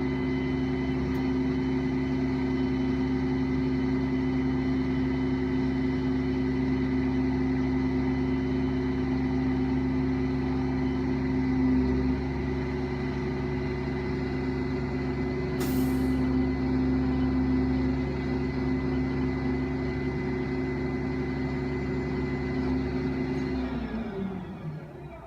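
Garbage truck engine running steadily at raised revs with a droning hum, as for driving the compactor, with a short hiss of air about two-thirds of the way through; near the end the engine note falls away as the revs drop.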